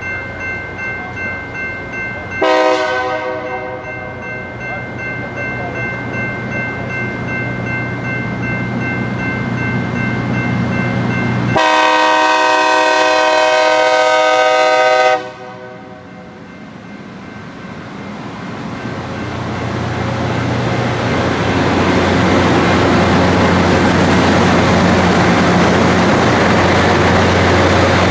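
Diesel locomotive air horn sounding a short blast, then a long blast of about three and a half seconds near the middle, as a train approaches. The rumble of the train builds from about two-thirds of the way through as it draws near and passes.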